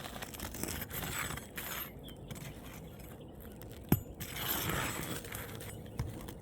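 Roofing tools scraping and prying under an old asphalt shingle to free a last stuck nail, with a sharp metallic click about four seconds in and a smaller one near the end.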